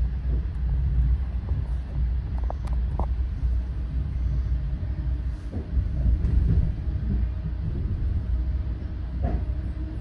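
Steady low rumble of a moving GO Transit passenger coach running over the rails, heard from inside the car, with a few short clicks and rattles about two and a half seconds in and again near the end.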